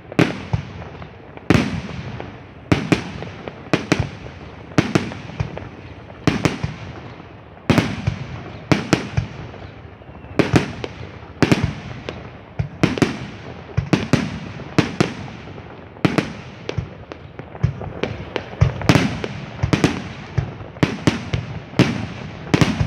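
A fireworks display firing shell after shell: sharp bangs about one to two a second, with a constant rumble and crackle between them.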